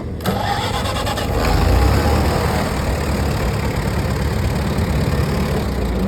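Antique farm tractor engine running with a low rumble. It steps up sharply just after the start and is loudest about a second and a half to two seconds in.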